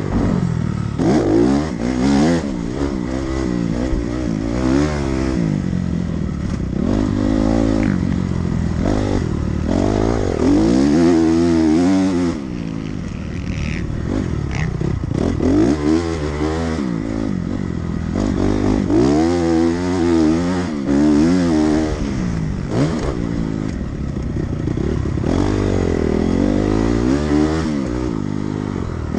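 Dirt bike engine ridden hard around a motocross track, revving up and falling off again and again as the rider opens and closes the throttle through corners and jumps.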